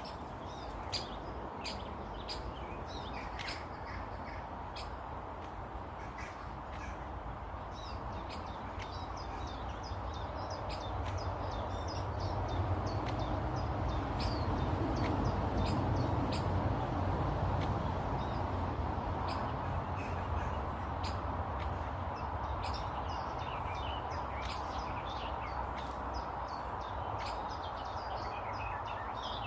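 Garden birds calling, many short chirps and calls throughout, over a low steady rumble that swells in the middle.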